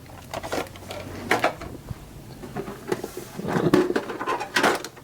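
Handling of a metal trading-card tin and foil booster packs: scattered knocks, scrapes and rustling, busiest near the end.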